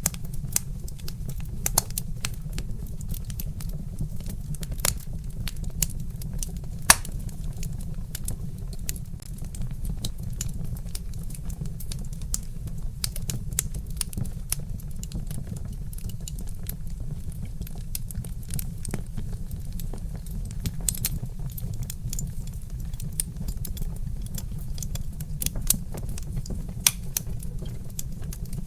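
Wood fire crackling, with frequent irregular sharp pops from burning logs over a steady low rumble. One pop stands out as louder about a third of the way in.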